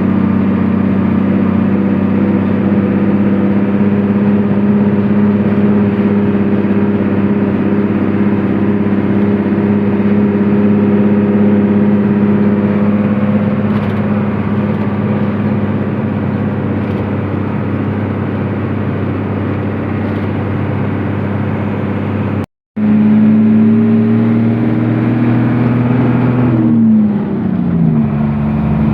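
Truck engine running steadily under way. After a brief cut-out about three-quarters through, the engine note comes back higher and then falls near the end.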